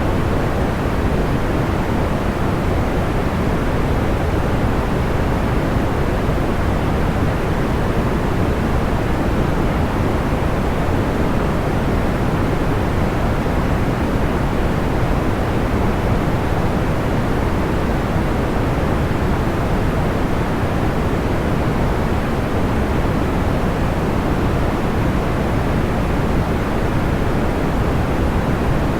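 Steady, unchanging white-noise-style sleep noise, weighted toward the low, deep end like pink or brown noise, with no fire crackles or pops standing out.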